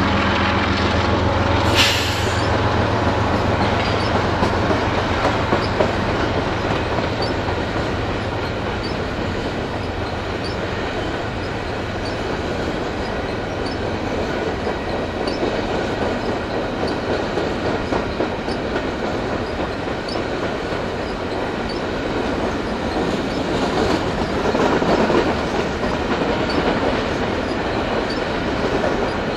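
Freight train passing: the drone of the lead CP diesel locomotives fades over the first dozen seconds as they draw away, leaving a string of empty covered grain hopper cars rolling by with steady wheel-on-rail noise and clickety-clack. A brief sharp noise comes about two seconds in.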